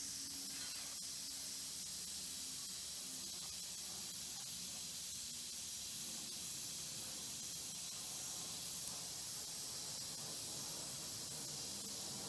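Steady hiss of a light railway train on the move, heard from on board, with a faint low hum beneath it.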